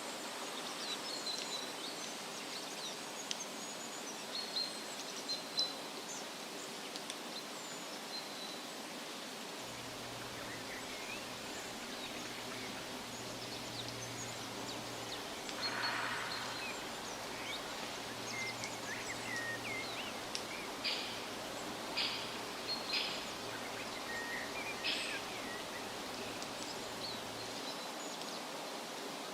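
Steady wind rustling through tree leaves, with scattered short bird chirps and calls throughout and a quick run of sharp chirps in the last third.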